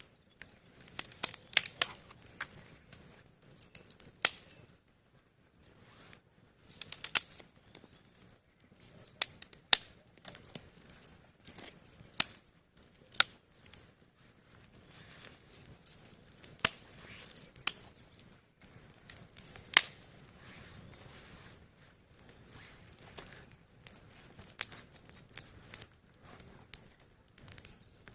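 Small campfire of dry branches crackling, with irregular sharp snaps and pops scattered through, a few of them much louder than the rest.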